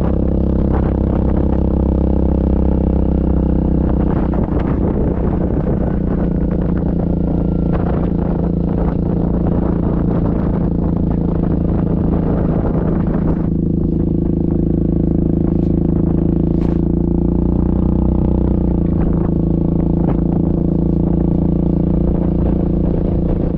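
Yamaha Grizzly ATV's single-cylinder engine running under way at a fairly steady speed, its note shifting slightly a couple of times, with scattered knocks and rattles from the machine.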